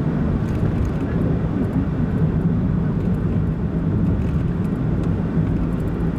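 Steady road noise from a car driving at cruising speed: a constant low rumble of engine and tyres on the road, heard from inside the vehicle.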